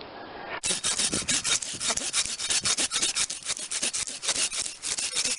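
Hand pruning saw cutting through a pine branch in quick, even back-and-forth strokes, starting about half a second in.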